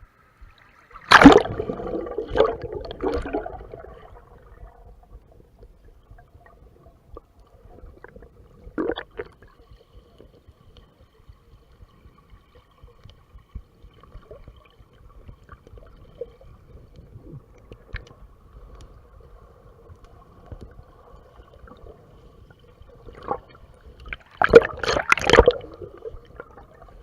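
Water splashing and gurgling, muffled through a GoPro waterproof housing: a loud splash about a second in, a smaller one near the middle and a second loud splash near the end, with faint water movement in between.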